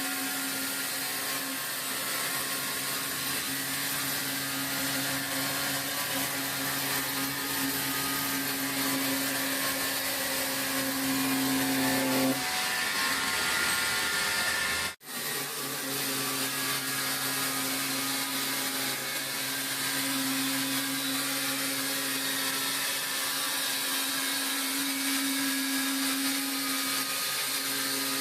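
Large electric sawmill saw running with a steady motor hum and hiss. The sound changes character about 12 seconds in, drops out for an instant about halfway through, then resumes.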